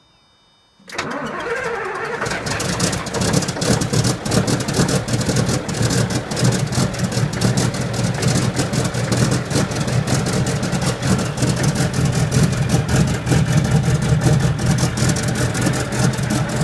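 Scania 142H's V8 turbo diesel, with straight-piped exhaust, starting from cold at −2 °C. It catches abruptly about a second in and keeps running loud with a rapid, uneven firing rumble.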